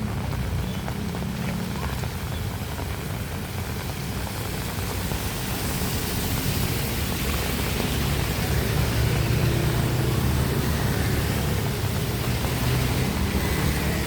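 Steady rain hiss with a low engine hum from passing traffic, which swells and grows louder through the middle.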